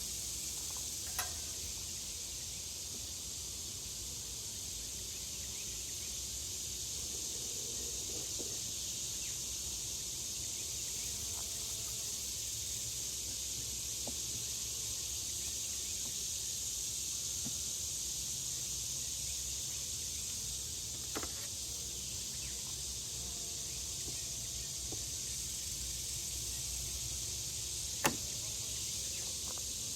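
Steady high-pitched hiss of an outdoor insect chorus, with three short sharp clicks, the loudest near the end.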